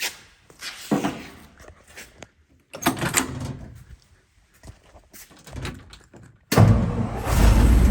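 Several thunks and knocks like a truck door and cab handling, then about six and a half seconds in the 1961 Ford F250's 292 Y-block V8 fires on a true cold start at about 40 degrees and settles into a loud, steady run.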